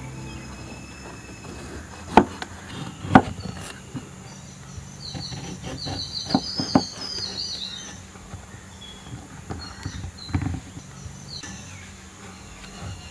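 Birds chirping in the background, short high chirps clustered in the middle and again near the end, with a few sharp knocks, the loudest about two and three seconds in.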